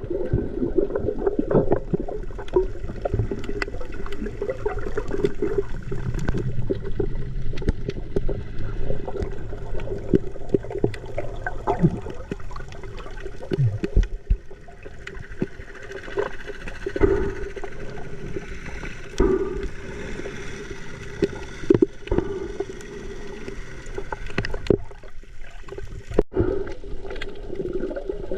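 Water sloshing and gurgling close around the microphone, with many small clicks and knocks.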